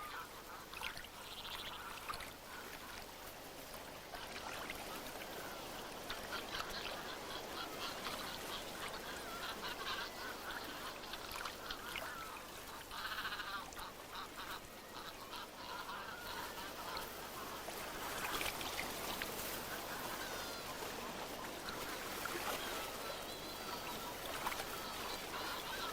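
Young Socotra cormorants squabbling over fish, giving many short, irregular calls over a steady wash of water.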